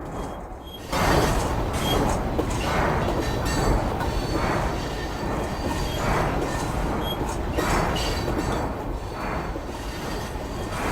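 Small railway locomotive running, heard suddenly and loudly about a second in, with a regular beat a little faster than once a second.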